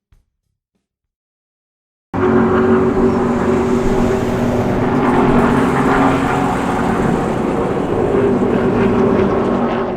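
Car engine running loud and steady at an even pitch. It starts abruptly about two seconds in and cuts off sharply at the end.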